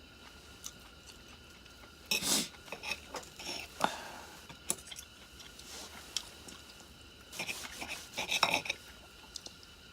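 Metal utensils scraping and clinking against camping cookware in a few short bursts, the busiest cluster near the end.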